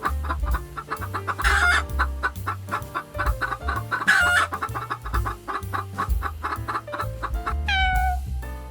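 Chickens clucking in quick repeated notes, with two louder squawking calls about a second and a half and four seconds in, over background music with a steady bass line.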